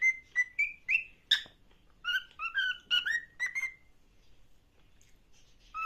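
Pet parrot whistling in quick runs of short notes, with a few sharp squawks mixed in; it goes quiet for about two seconds before starting up again near the end.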